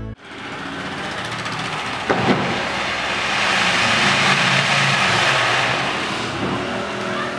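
Train running past at speed: a steady rushing of wheels on rail, loudest around the middle, with a couple of sharp knocks about two seconds in, then cut off abruptly.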